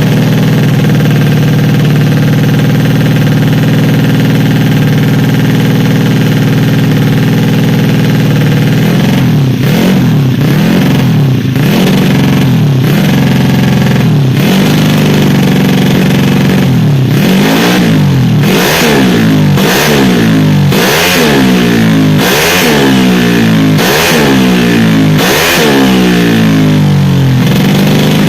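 Tuned 150 cc automatic scooter engine idling steadily, then revved in quick throttle blips over and over from about nine seconds in, each rising and falling fast, before settling back to idle near the end.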